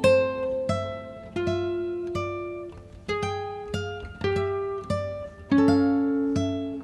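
Background music on a plucked acoustic guitar: notes and chords are picked and left to ring and fade.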